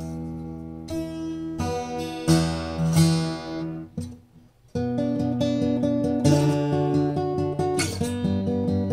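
FG-2500 acoustic guitar being strummed: chords struck about once a second and left to ring, a short break about four seconds in, then a quicker, even rhythmic pattern of notes.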